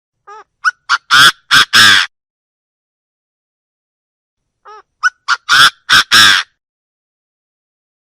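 Chinese francolin calling twice: each phrase opens with a few short, quieter notes and builds to three loud, harsh notes.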